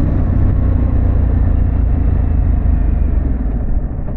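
2024 Harley-Davidson Pan America running at road speed, a steady low engine and exhaust rumble mixed with wind noise on the microphone; it eases off slightly near the end.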